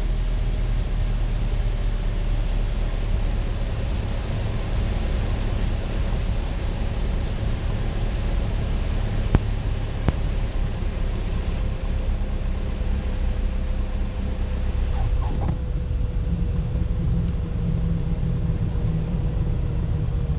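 Steady cabin drone of a Piper Cherokee's piston engine and propeller, with a faint tone that slowly sinks in pitch. Two short clicks come about 9 and 10 seconds in.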